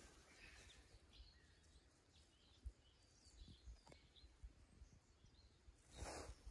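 Near silence with faint, distant bird chirps, a few soft clicks and knocks, and a brief rustle near the end.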